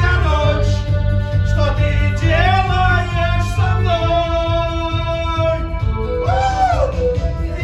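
Pop music with a man singing long held notes over a steady bass beat.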